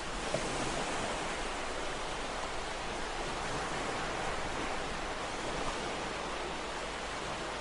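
Ocean waves breaking and washing on a shore in a continuous hiss of surf, swelling slightly early on and easing near the end.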